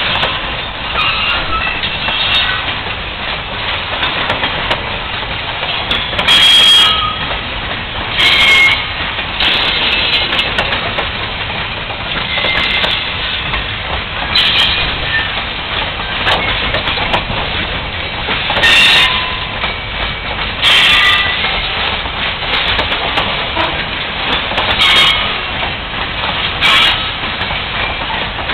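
Long train of loaded flatcars rolling past: a steady rumble and rattle of wheels on rail, broken by brief high squeals and several sharp metallic bangs spaced a few seconds apart.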